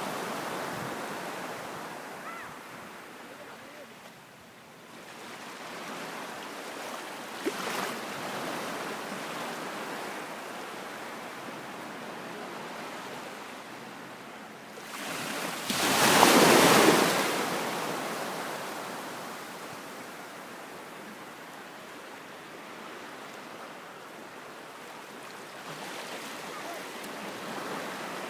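Sea waves washing onto the shore, rising and falling, with one larger wave breaking about halfway through, the loudest moment.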